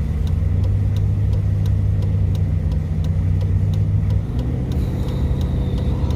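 1970 Chevrolet dump truck's engine running under load on a hilly road, a steady low drone with about three faint ticks a second; about four seconds in, its pitch drops and it briefly gets quieter.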